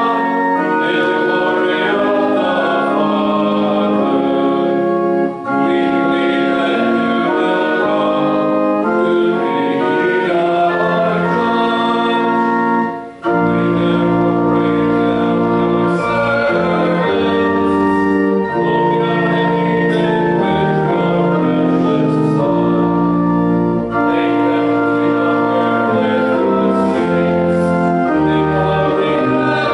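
Church organ playing a hymn in sustained chords. A short break comes about thirteen seconds in, after which a deep bass line joins.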